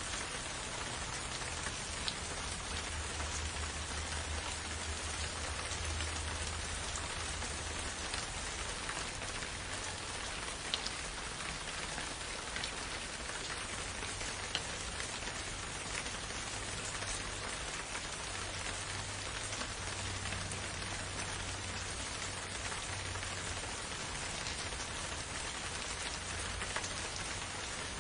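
Steady, gentle rain falling, with a few louder single drops ticking out of the hiss now and then.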